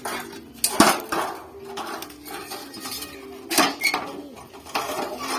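Hammer striking refrigerator sheet metal while forming a folded seam, a few irregular metallic clanks with short ringing.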